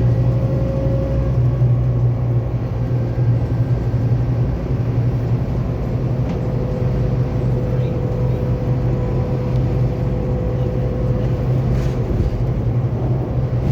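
Scania K280UB4 bus heard from on board while driving: a steady low engine drone with a faint steady whine above it and road noise.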